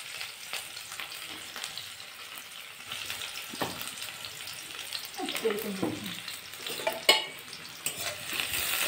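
Sliced onion frying in hot oil in a metal kadai: a steady sizzle with scattered small ticks. There is one sharp knock about seven seconds in.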